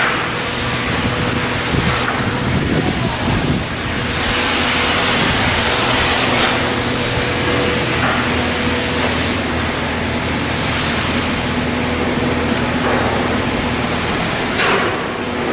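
Steady machinery hum under a loud rushing noise that swells and fades every few seconds, typical of work noise at a shipyard.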